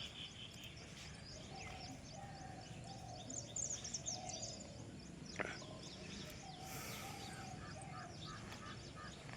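Birds chirping faintly: many short, quick high chirps running on, with one sharp click about five and a half seconds in.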